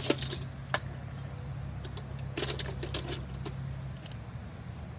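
Light metallic clinks of a hex wrench being fitted into and worked on a brake caliper's guide-pin bolt, a few near the start and a cluster about two and a half seconds in, over a steady low hum.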